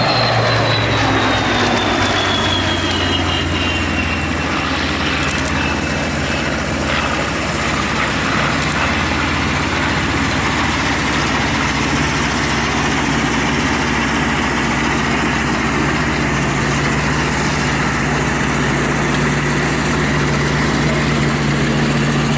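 Vintage propeller aircraft piston engines. One aircraft passes with a falling pitch over the first few seconds, then a steady engine drone runs on.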